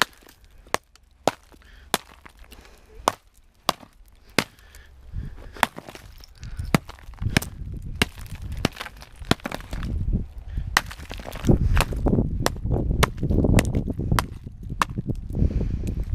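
Hammer chopping at a thick ice dam on a roof edge: a run of sharp, separate blows, about one to two a second. A low rough rumbling noise builds beneath the blows from about five seconds in.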